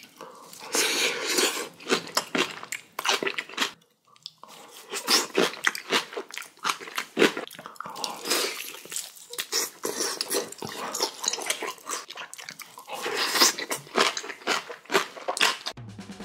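Close-up crunching and chewing of kimchi, a person biting into it and chewing in quick, irregular crunches, with a brief pause about four seconds in.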